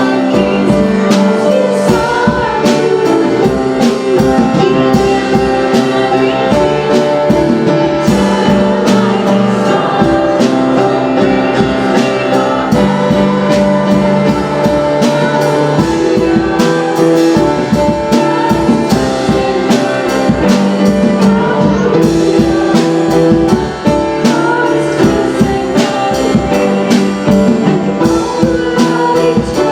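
Live worship music: a band playing held chords over a steady beat, with singing.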